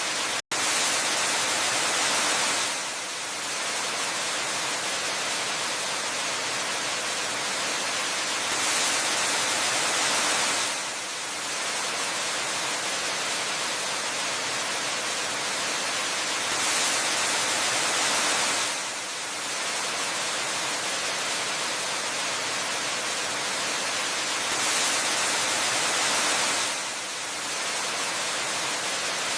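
Steady rushing of a waterfall, a dense hiss of falling water that swells a little louder and brighter about every eight seconds. About half a second in the sound drops out for an instant.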